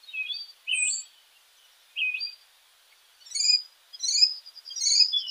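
Songbirds calling: short, high whistled chirps and slurred notes, a few spaced calls at first, then coming more quickly in the second half.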